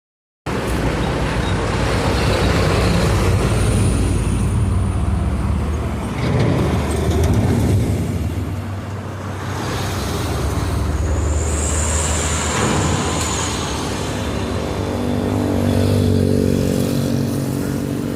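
A long Babaranjang coal train passing, its diesel locomotive running with a steady low hum over continuous rumbling of the wagons on the track. A high-pitched squeal rises twice, about four seconds in and again around twelve seconds in.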